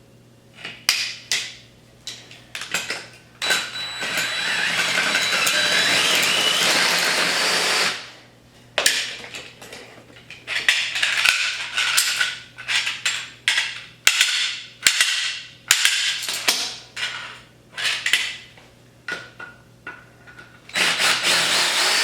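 Cordless drill boring out a rivet in a steel camper strut bracket: a steady run of about four seconds and another starting near the end, with repeated metal clanks and knocks of the bracket, clamp and tools in between.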